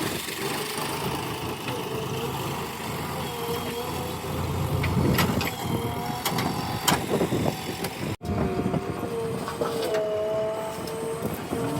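JCB 3DX backhoe loader's diesel engine running as it works, with a few sharp knocks about five to seven seconds in. The sound cuts out for an instant about eight seconds in, then resumes with a wavering tone over the engine.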